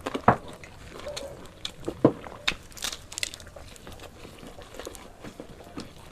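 Close-up eating: chewing and biting with irregular crisp crunches and wet mouth clicks. The sharpest crunches come about a third of a second in and again around two seconds in.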